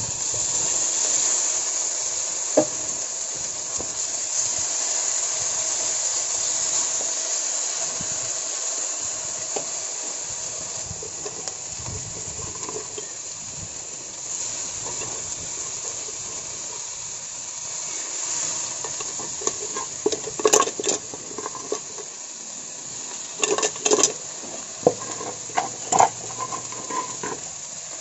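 Food sizzling in hot oil in a pan. It starts suddenly, then slowly dies down, and from about twenty seconds in there are clinks and scrapes of a utensil stirring against the pan.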